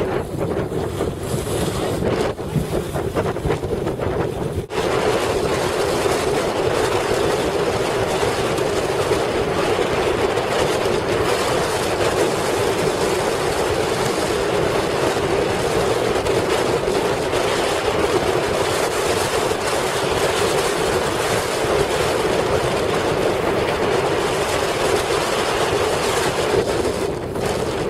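Strong wind buffeting the microphone, mixed with water rushing and a steady drone. It settles into a constant, louder rush about five seconds in.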